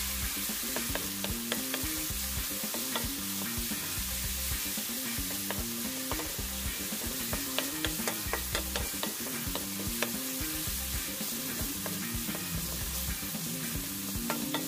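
Chopped onion, garlic and tomato sizzling in hot oil in a pan while a wooden spoon stirs and scrapes them around, with many small clicks of the spoon against the pan.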